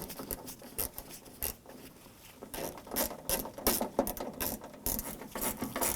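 Hand ratchet clicking in short, uneven strokes as it runs the door latch screws in.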